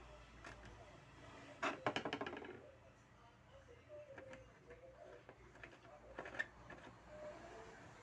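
A quick run of small clicks and taps about two seconds in, then scattered light taps, the sharpest near the end: small hand tools handled and tapping on a circuit board at a repair bench.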